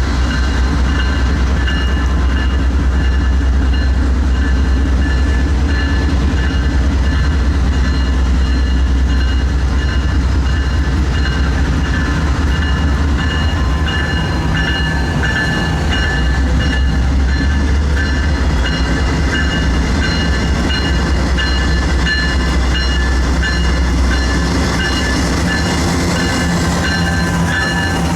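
Freight train rolling by, a steady low rumble of locomotives and railcars on the track that eases slightly near the end.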